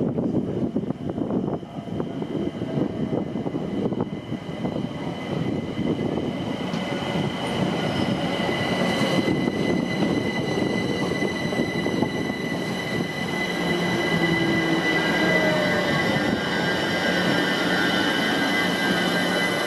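A train running on the rails: a steady rumble of wheels on track, with high-pitched wheel squeal setting in about a third of the way through and growing stronger.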